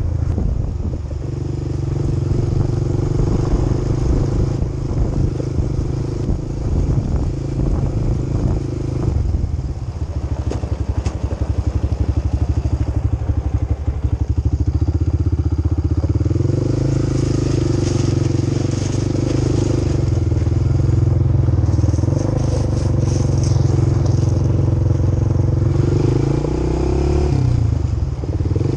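Quad bike engine running while riding. It drops back for several seconds in the middle, then pulls stronger again a little past halfway, with a brief dip near the end.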